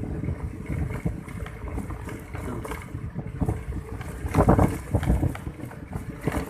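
Wind buffeting the microphone as a steady low rumble, with irregular knocks and rustles that are loudest about four and a half seconds in.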